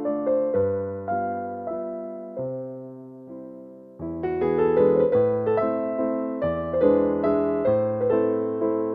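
Background piano music, soft notes that thin out and fade, then a fuller passage starting about four seconds in.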